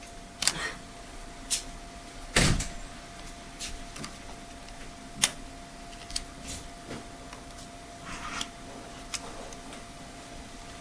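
Scattered small clicks, taps and scrapes of hand tools on the tablet's plastic and metal parts as it is pried and taken apart, a dozen or so, the loudest a little after two seconds in. A faint steady tone runs underneath.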